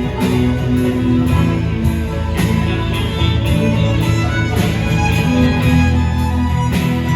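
Live band playing an instrumental break of a slow song, sustained melody notes over a steady beat of about two strikes a second.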